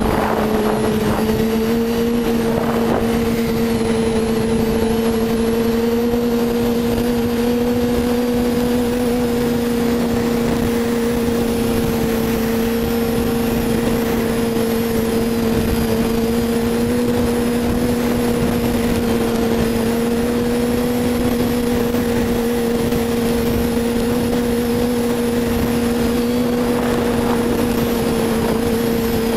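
Yamaha Attak snowmobile's four-stroke four-cylinder engine with an Excell aftermarket exhaust, running at steady revs while under way, its note holding one even pitch.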